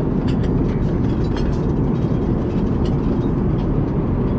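Steady drone of an Airbus A380 cabin in cruise, the rush of airflow and engines heavy in the low end, with a few faint light clicks over it.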